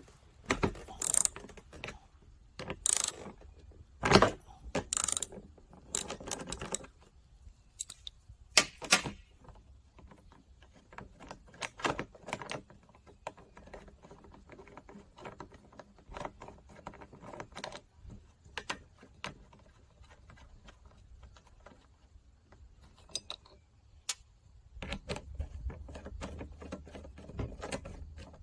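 Hand tools and small metal parts clinking and clattering as a fuel gauge is unfastened and taken out of a fuel tank: sharp knocks for the first several seconds, then lighter scattered ticking and clicking.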